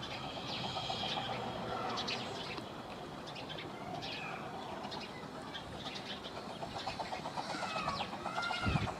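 Birds chirping and calling, a mix of short chirps and arching whistled notes, with a fast rattling series of notes over the last few seconds.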